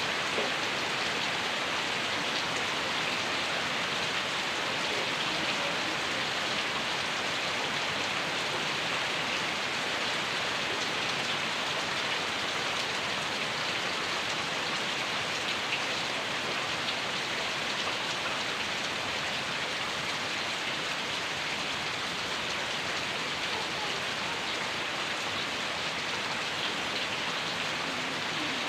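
Heavy rain falling steadily, pattering on surfaces as a dense, even hiss.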